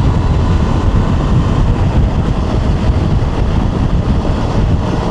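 2025 Honda Transalp's parallel-twin engine running steadily while the motorcycle is ridden along, with wind rushing over the microphone.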